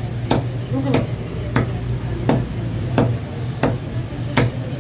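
A heavy knife chopping local chicken into pieces on a cutting board: about seven evenly spaced strikes, one every 0.7 seconds or so, over a steady low hum.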